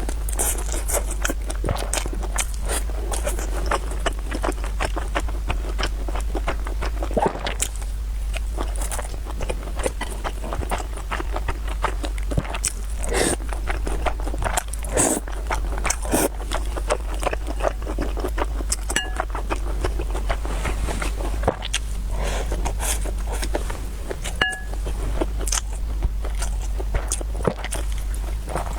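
Close-miked eating: a person chewing and biting food, with many irregular crisp clicks and crunches, over a steady low hum.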